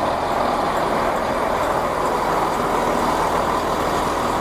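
A Class 165 diesel multiple unit's underfloor diesel engines running steadily and loudly while the train stands at the platform.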